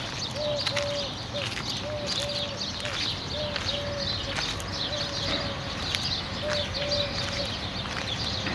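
Birds calling: one bird repeats a short low note over and over, while many small birds chirp and twitter at a higher pitch.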